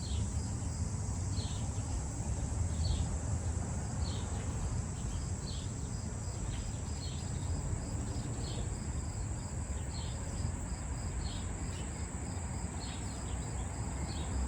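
Crickets trilling steadily, with a short high chirp repeating about every second and a half over a low steady rumble.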